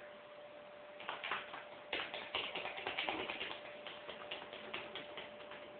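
A quick, irregular run of light taps and clicks over a faint steady hum.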